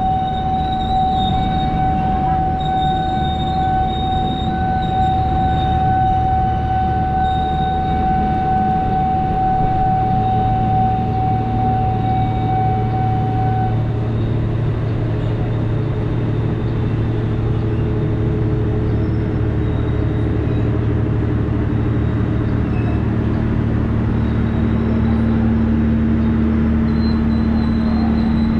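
Train running at a station, with a steady low engine hum and a high steady whine that stops about halfway through; a lower steady tone comes in near the end.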